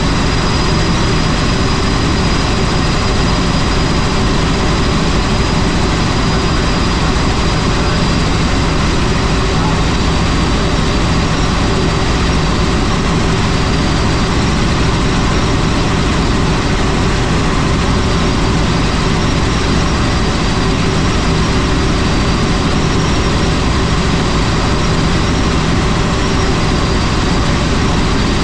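Helicopter in flight: steady, unchanging engine and rotor noise, with a faint high whine over it.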